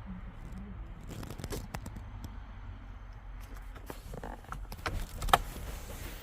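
A steady low rumble with a scatter of sharp clicks and knocks, the loudest a single sharp click about five seconds in.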